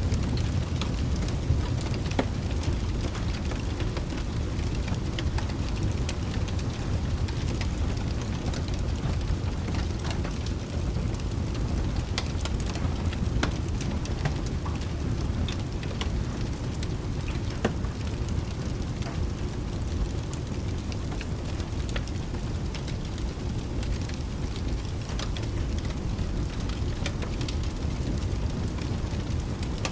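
Steady rain over a continuous low rumble, with a fireplace crackling in scattered sharp pops.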